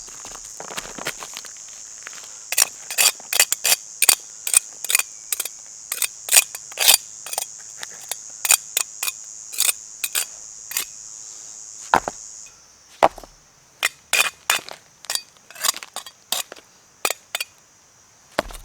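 Sharp, irregular cracks and snaps, two or three a second, over steady high insect chirring that drops away suddenly about twelve seconds in.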